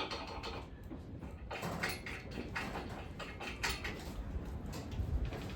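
Irregular scraping and knocking as metal parts and containers are shifted around on a shop bench.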